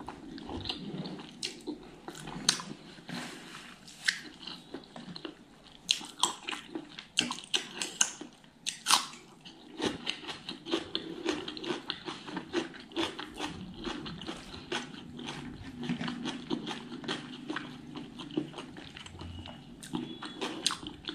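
Close-miked chewing of fatty smoked pork curry and rice, with frequent irregular sharp mouth smacks and clicks.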